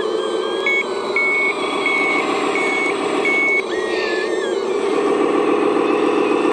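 Reversing beeper on a radio-controlled construction machine sounding five evenly spaced beeps, then stopping a little past halfway, over the steady drone of the model's engine sound and motors.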